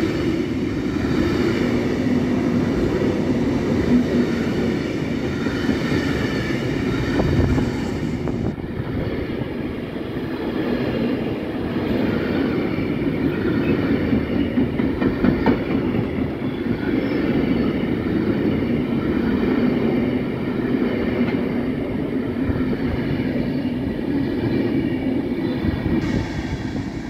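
A long train passing at steady speed, its wheels rumbling on the track.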